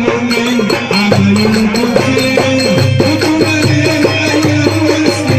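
Egyptian simsimiyya folk band playing an instrumental passage: a sustained, bending melody over a steady percussion rhythm with shakers.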